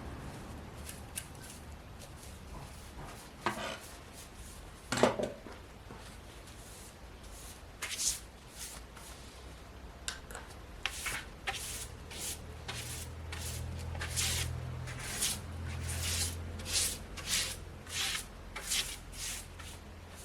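Fabric being handled and worked by hand: an irregular run of short rustles and snips, sparse at first and then about one or two a second in the second half.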